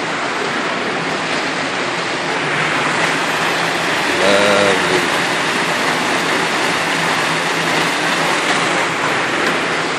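Steady rush of running water, a waterfall or cascade on the river, with a short voice heard about four seconds in.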